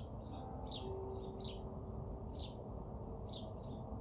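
A small bird chirping repeatedly, short high chirps in twos and threes, over a low steady background rumble.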